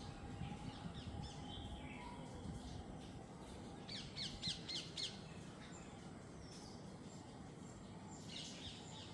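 Jungle birds calling: scattered high chirps, with a run of about six quick, high, sharp calls about four seconds in, which is the loudest part, and more calls near the end, over a steady low background hiss.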